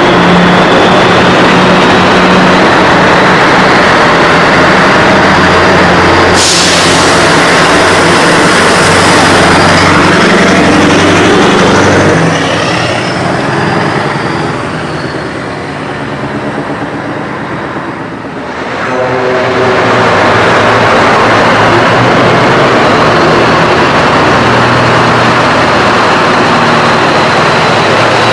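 Heavy diesel trucks driving past one after another, engines running loud, with a quieter lull in the middle before the next ones come through. A sharp hiss of air from a truck's air brakes about six seconds in.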